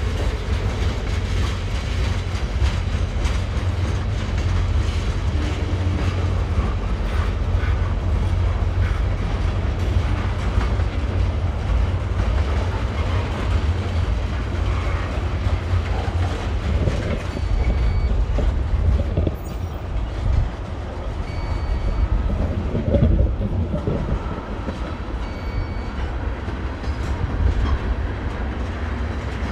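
Train rolling past, its cars clattering over the rails with a steady low rumble.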